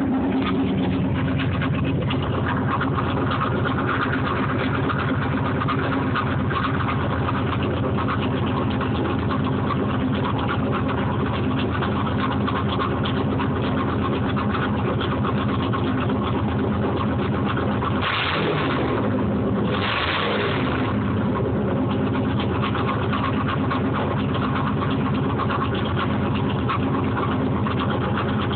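1987 Camaro IROC-Z's 355 small-block V8 with a mild cam, running through an open exhaust cutout, idling steadily, with two short revs about two-thirds of the way through.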